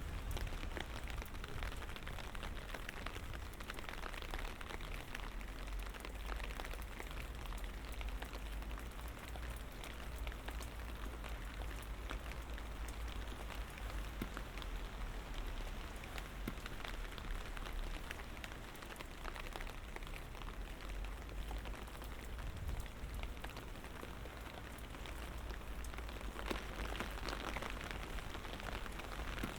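Light rain falling steadily, with many small drop ticks on hard surfaces over an even hiss and a low steady rumble underneath.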